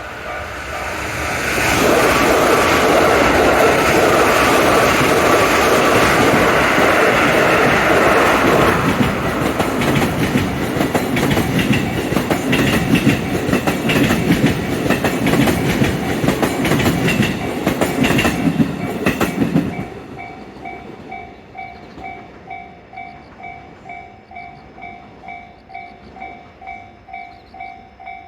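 A train passes over a Japanese level crossing, loud and close, with rail joints clicking as it goes; it cuts off about 20 seconds in, leaving the crossing's alarm bell ringing at about two strokes a second.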